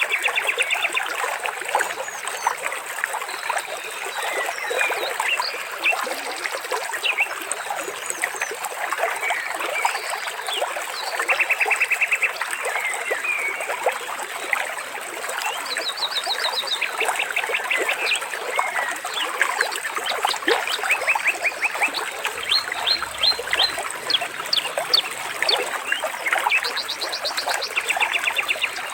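Trickling, splashing water with many small bird calls and chirps over it, and every few seconds a short run of rapid, evenly spaced clicking calls.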